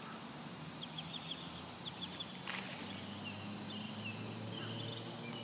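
Small bird chirping in short, quick high notes, several runs of them, over a low steady hum; a single sharp click about halfway through.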